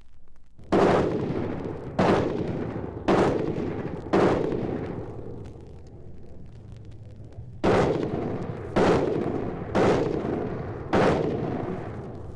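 Heavy gunfire: eight loud shots in two sets of four, about a second apart. Each shot trails off in a long rumbling echo.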